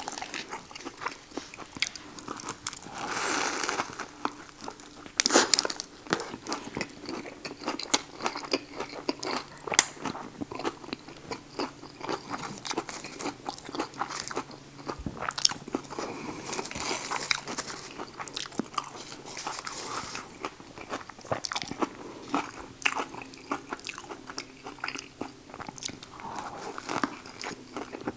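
A person biting into and chewing a Subway buffalo chicken sandwich, with irregular wet clicks and crunches from the lettuce, cucumber and peppers, a few bites louder than the rest.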